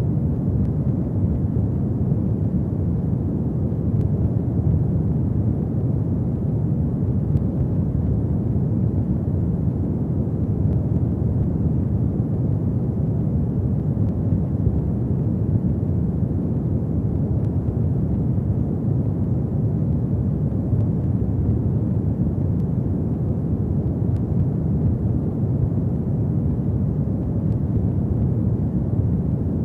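Fire burning in a fireplace: a steady low rumble with faint, occasional crackles.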